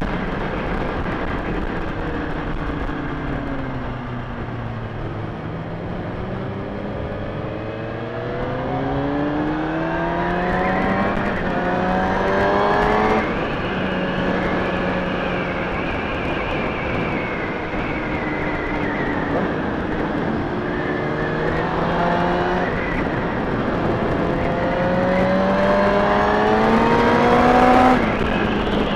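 Kawasaki ZX-6R inline-four motorcycle engine under way. Its pitch falls over the first few seconds, then climbs steadily under acceleration and drops sharply at an upshift about halfway through. It climbs again to a second shift near the end.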